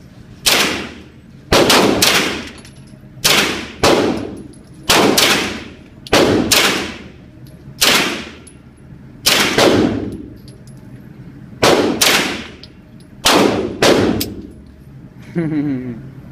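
Gunshots at a shooting range: a slow, uneven string of about fifteen single shots, some in quick pairs, each followed by a ringing echo that fades over about half a second.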